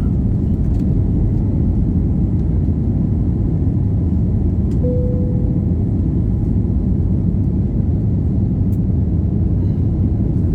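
Airbus A321neo cabin noise during takeoff: a steady, loud low rumble of the jet engines and airflow. A short steady tone sounds about halfway through.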